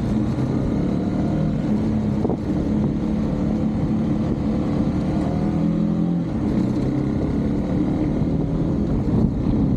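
Husqvarna Svartpilen 401's single-cylinder engine running steadily under way, its pitch shifting a little with the throttle, over a low wind rumble on the microphone.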